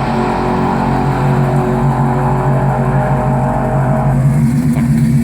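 Twin-turbocharged LS1 5.7-litre V8 engine running at a steady speed.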